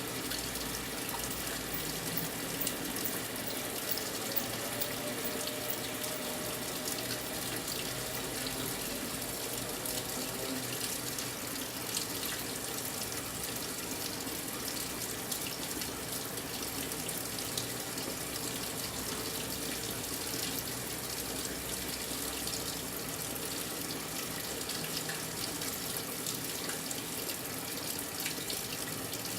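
Brastemp 9 kg washing machine filling its tub with water, a steady rush of water pouring in.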